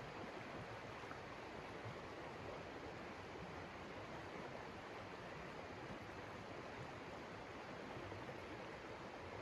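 Blizzard wind blowing steadily, an even rushing noise without gusts or breaks.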